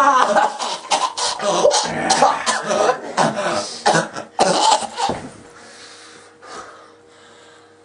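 A person's coughs and rough vocal noises in quick irregular bursts for about five seconds, then dying down to quiet with a faint steady hum.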